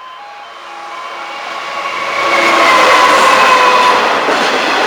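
Class 66 diesel-electric freight locomotive approaching and passing, its sound building up over the first two to three seconds and then staying loud, with a few steady tones over the rushing noise. A pulsed level-crossing alarm tone is faint at the start.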